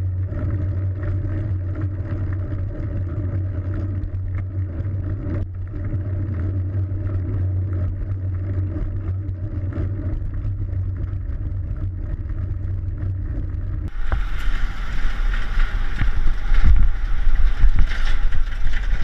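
Road traffic heard from a bicycle, with a steady low engine hum. About three quarters of the way through, the hum gives way to louder wind rush on the microphone and road noise.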